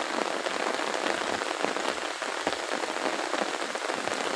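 Heavy rain pouring steadily, a dense patter of drops striking nearby surfaces.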